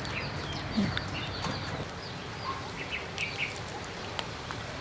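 Small birds chirping in the background, a scatter of short high calls, with a few light clicks.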